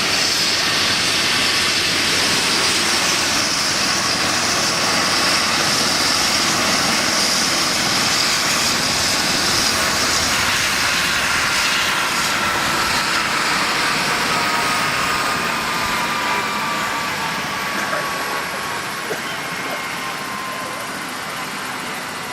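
Medical helicopter's turbine engine and rotor running loud and steady with a high whine. Near the middle the whine starts sliding slowly down in pitch and the sound eases off, as the engine spools down toward idle.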